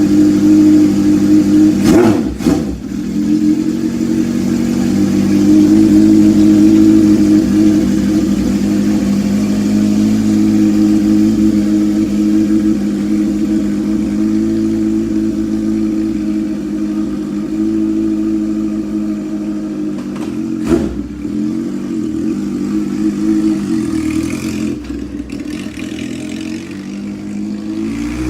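1974 Honda CB750K single-overhead-cam inline-four idling steadily through a Mac 4-into-1 exhaust, its baffle replaced by a DK Customs Thunder Torque insert, as it warms up after a cold start. The engine note wavers briefly about two seconds in and again about twenty-one seconds in.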